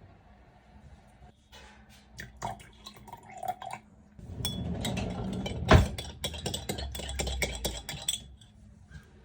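Scattered clicks and taps of bottles and a glass being handled, then about four seconds of liquid being poured with clinks, with one sharp knock in the middle, stopping about eight seconds in.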